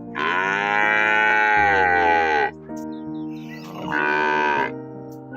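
Cow mooing twice, a long moo of about two seconds and then a shorter one near the end, over background music.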